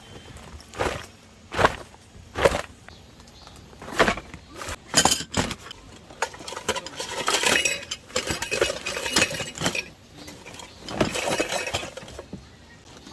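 Dishes and utensils clinking and knocking as they are handled: a string of separate sharp strikes, with a few longer stretches of scraping and rattling.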